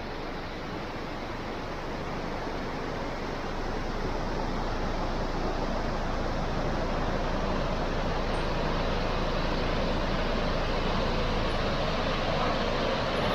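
Steady rushing of water, an even hiss-like roar that grows slightly louder about four seconds in.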